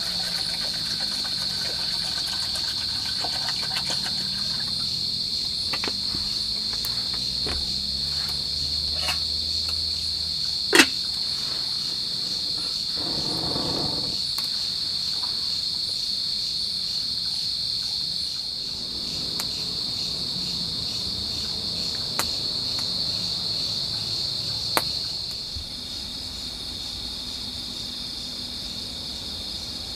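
A steady, high, pulsing chirring of insects, a forest cricket chorus. A sharp knock sounds about eleven seconds in, with a few fainter clicks scattered through.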